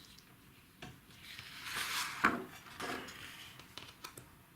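Sheets of drawing paper being handled and shuffled: a rustling swell about two seconds in with a sharp tap, then a few light knocks.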